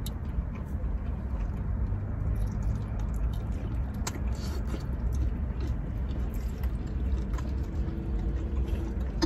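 Someone biting and chewing a buffalo chicken wing: small wet mouth clicks and smacks scattered throughout, over a steady low rumble inside the car.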